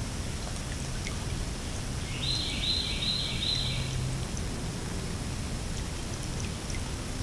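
Swamp ambience recorded by a trail camera: a steady hiss with faint scattered ticks of water. About two seconds in, an unseen bird gives four quick, evenly spaced high notes in a row, lasting about two seconds.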